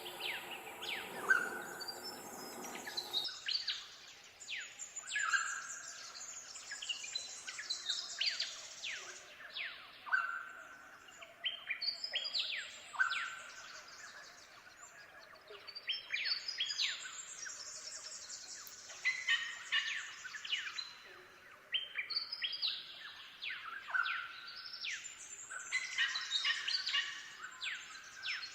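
Birds chirping: many quick calls that each sweep sharply down in pitch, coming in clusters every second or two. For about the first three seconds a low steady humming tone sits underneath and then cuts off abruptly.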